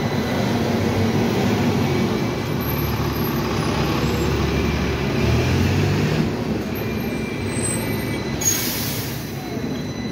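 Hong Kong tram running: a steady rumble of wheels on rails and motor, with a short high hiss about eight and a half seconds in.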